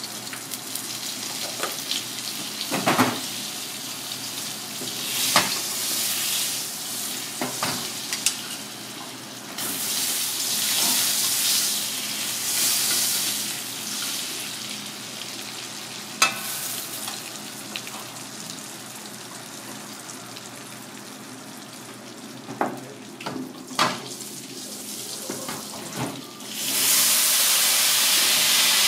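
Butter sizzling and frying in hot oil in a wok over a gas flame, with an occasional sharp knock of wooden chopsticks against the wok. Near the end a much louder, steady hiss of steam starts up and holds.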